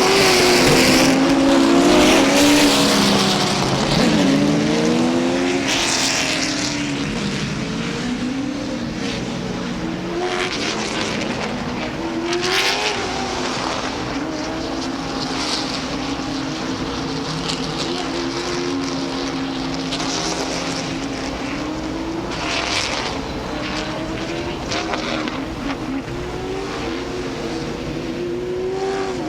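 Late model stock cars' V8 engines running at pace-lap speed. Several engines rise and fall in pitch as the cars pass, loudest in the first few seconds, then steadier.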